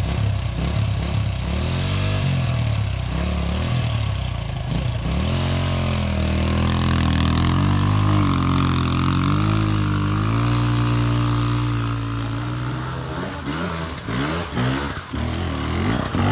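Dirt bike's single-cylinder engine running under throttle, its revs rising and falling, with a longer steady pull in the middle. Near the end the revs drop and come in short, uneven blips.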